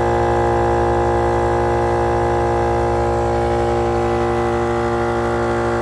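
Battery-powered Mile Marker portable air compressor running steadily at an even pitch, pumping air through a four-way inflator into four tyres as they are aired up toward 34 PSI.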